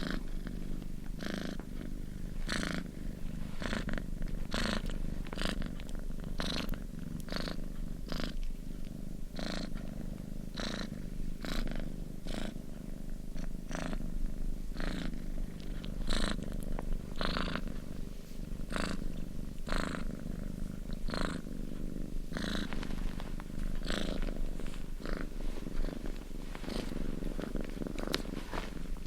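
Domestic cat purring steadily, a continuous low rumble with a breathy hiss on each breath in and out, roughly once a second.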